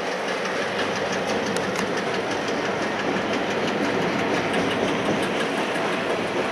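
A train rolling past at speed, a steady rumble of wheels on rail with a rapid clickety-clack of the wheels over the rail joints.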